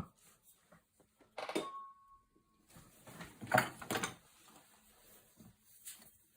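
Scattered knocks and light clatter of metal tools handled on a table. One light strike about a second and a half in leaves a short ringing tone, and the loudest clatter comes around three and a half to four seconds in.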